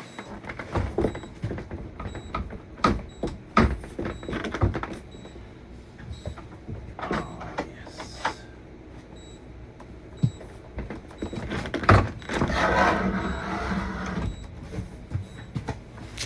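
Clicks and knocks of a door and its lock being handled inside a motorhome, with a few seconds of rattling, whirring noise late on.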